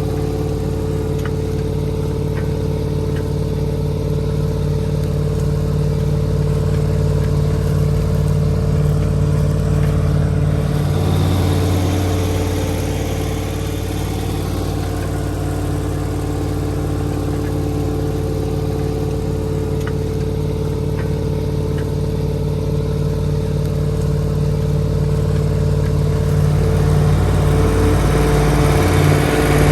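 Massey Ferguson 4840's V8 diesel engine running steadily, its note changing about eleven seconds in and again near the end.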